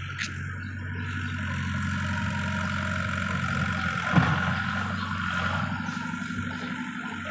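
Heavy diesel earthmoving equipment running steadily, with one short knock about four seconds in.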